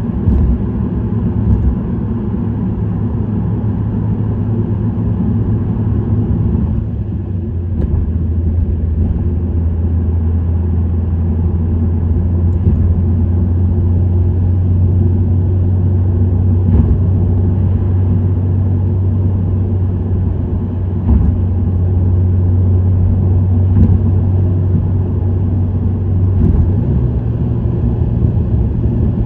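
Subaru WRX STI (VAB) with its turbocharged 2.0-litre boxer four and STI Performance muffler cruising steadily: a low exhaust drone over road noise. The drone drops slightly in pitch about seven seconds in and rises again near the end.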